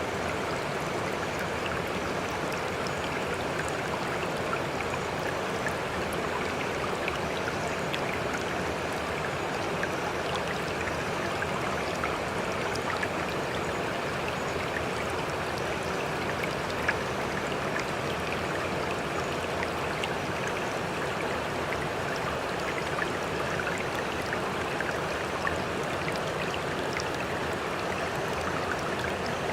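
Sea water washing steadily, one even rush of water with no distinct surges of breaking waves, and a few faint small splashes or ticks.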